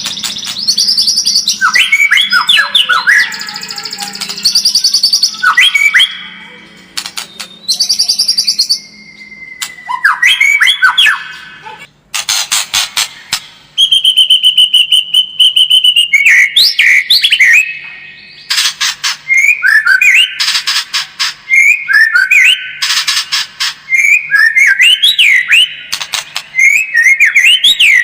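White-rumped shama (murai batu) singing a long, varied song: fast rattling trills, clear whistles and sweeping notes in quick phrases with short pauses between.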